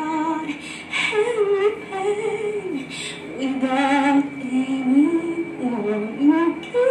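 A woman singing a slow melody, with long held notes that slide up and down in pitch.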